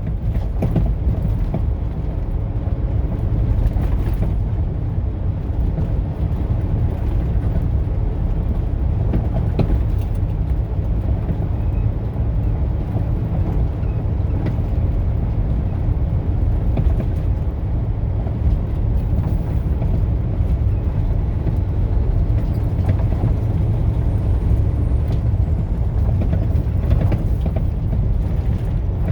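Steady rumble of a vehicle cruising on a highway: an even engine drone mixed with road and wind noise, unchanging throughout.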